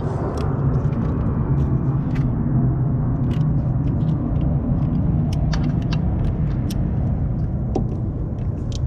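The 2003 Acura TL's 3.2-litre V6 engine idling steadily, heard up close with a low, even rumble. Scattered light clicks sound over it.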